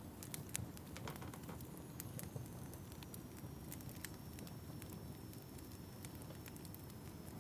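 Fireplace fire crackling: a low steady rumble with scattered sharp pops and snaps.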